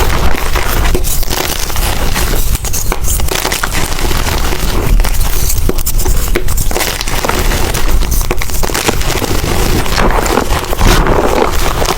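Blocks of gym chalk being crushed and crumbled close up: a dense, continuous crackling and crunching as the chalk breaks into powder.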